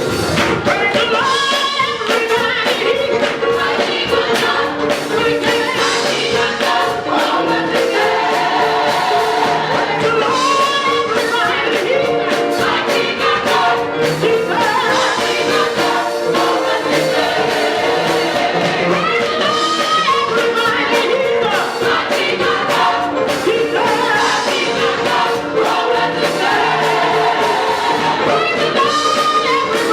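A gospel mass choir singing with band accompaniment.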